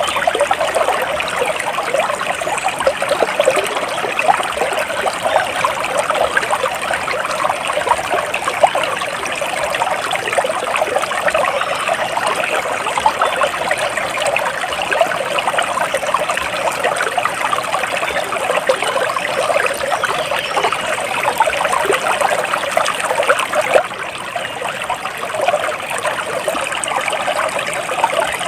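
Flowing water trickling and babbling steadily, like a small stream running over stones.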